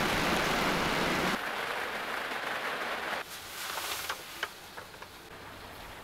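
Heavy rain falling, a loud steady hiss. About three seconds in it drops to a softer patter with scattered single drops tapping, as heard from inside a small van.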